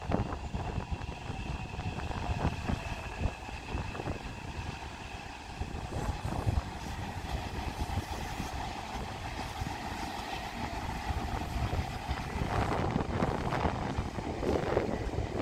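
Taipei Metro electric train running on the track: low wheel rumble and clatter under steady high whine tones, growing louder near the end.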